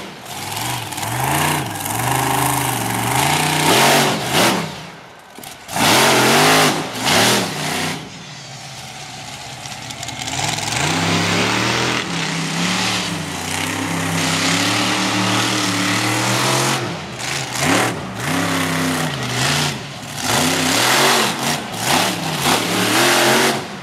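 Monster truck engine revving hard over and over, its pitch climbing and falling with each burst of throttle, with a steadier, lower-revving stretch partway through.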